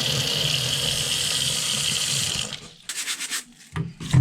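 Bicycle tyres rolling over a gravel path, a steady rushing noise that stops about two and a half seconds in. After it come short rhythmic scratching strokes of a brush scrubbing trifoliate oranges, once near the end.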